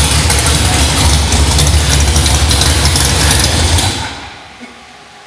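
Holden Torana drag car's engine running loud and steady with a lumpy low rumble, then dying away about four seconds in.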